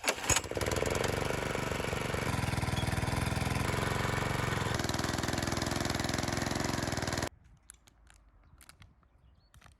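Small single-cylinder petrol engine of garden machinery running steadily with an even pulsing beat, then cutting off abruptly about seven seconds in.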